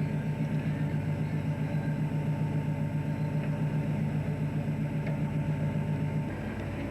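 A fishing boat's engine running steadily: a low, pulsing hum that eases off slightly about six seconds in.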